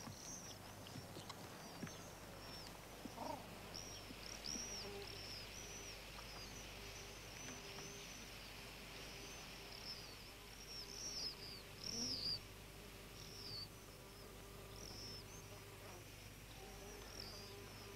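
Faint birdsong: many short, high chirps repeated throughout, over a low steady hum.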